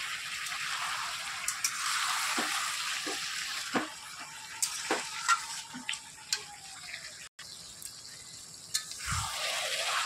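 Mutton sizzling in a steel kadai while a metal spatula stirs it, scraping and clinking against the pan. The sizzle is strongest over the first few seconds and then quietens. The meat is being dry-fried (kosha), cooking off the juices it has released.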